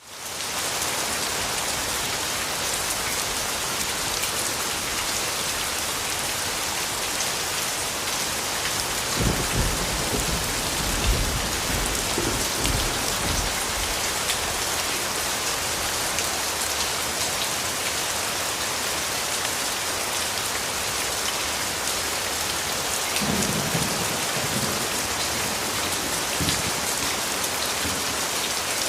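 Steady rain falling, fading in at the start, with two low rolls of thunder: one about a third of the way in and a softer one near the end.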